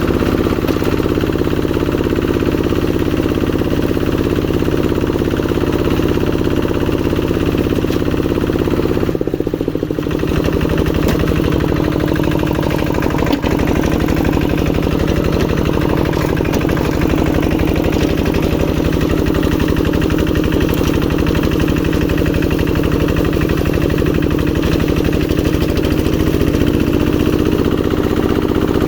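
Old Kubota RD85 single-cylinder diesel engine on a hand tractor, running steadily while plowing a rice field. About nine seconds in its note briefly dips and shifts, then settles back into a steady run.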